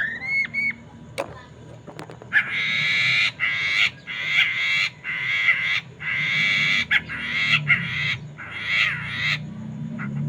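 Poksay Mandarin (black-throated laughingthrush) singing: a few short rising whistles, then a run of about seven harsh, raspy chattering phrases in quick succession.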